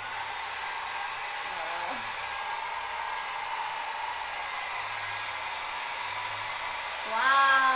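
Handheld hair dryer running steadily: an even rush of blown air with a thin high whine. Near the end a woman's voice exclaims over it.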